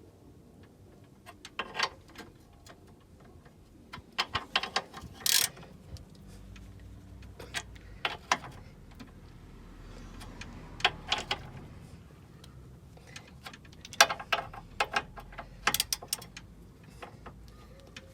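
Sharp metallic clicks and clinks in short bursts every few seconds, from hand tools and metal parts being handled during suspension and brake work; the loudest burst comes about two-thirds of the way in.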